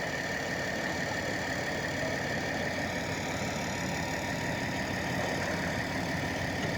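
Heavy diesel engine idling steadily, with a constant high-pitched whine running alongside it.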